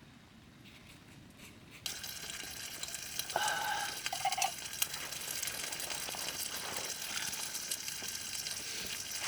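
Food sizzling in a hot pan, the sizzle starting suddenly about two seconds in as the food goes in and then holding steady. Two short high squeaks follow a second or so later.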